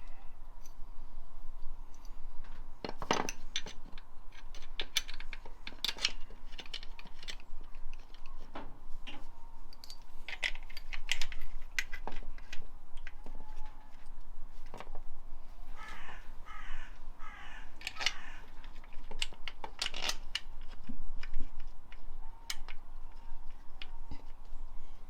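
Scattered metallic clinks and knocks of hand tools and bolts as an alternator is fitted to a Ford Focus ST225 engine.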